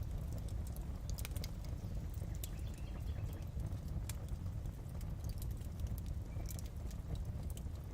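Fireplace fire burning with a steady low rumble and irregular sharp crackles and pops.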